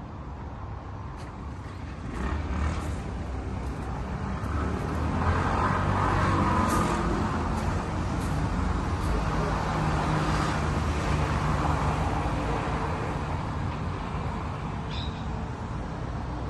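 Motor vehicle running with road noise, growing louder about two seconds in and again around five seconds.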